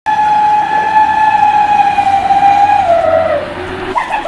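A loud horn-like tone that starts suddenly, holds one steady pitch for about two and a half seconds, then slides down in pitch and fades out near the end.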